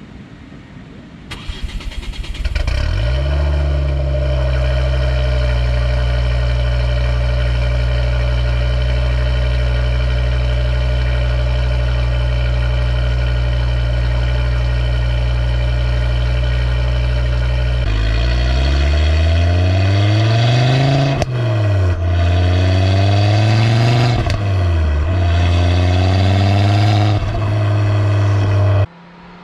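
Ford Focus RS mk2's turbocharged five-cylinder engine with an aftermarket HG Bull downpipe, cranking and starting about two seconds in, then settling to a steady idle. Over the last ten seconds it is revved several times, the pitch rising and falling with each blip.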